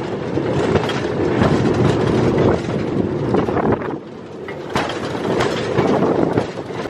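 Railroad motor car (track speeder) running along the rails: a steady rumble with frequent clacks from the wheels on the track, easing briefly about four seconds in.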